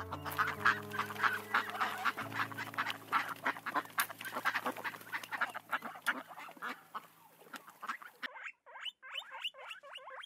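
A flock of waterfowl calling in a dense, rapid chatter of honks and quacks over soft background music. The music fades out about eight seconds in, and a thinner run of quick calls carries on alone.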